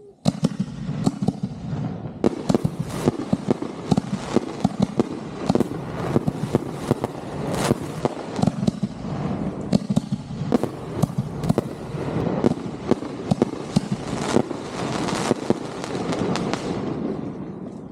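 Consumer (1.4) fireworks going off in a dense, continuous barrage of rapid bangs and crackling. The barrage starts suddenly and tails off near the end.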